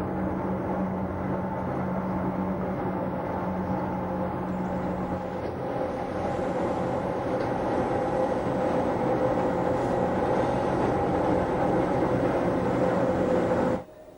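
Wengernalpbahn electric rack railway train running uphill: a steady rumble with a few held humming tones, which cuts off suddenly near the end.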